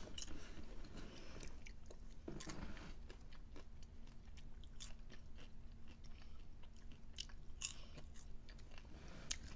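Close-up chewing and crunching of popcorn mixed with candy pieces: irregular crisp crunches scattered throughout.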